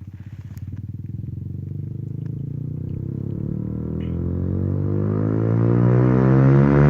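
Honda CBR125R's single-cylinder four-stroke engine revving up slowly and smoothly from low revs, getting louder as the pitch climbs steadily.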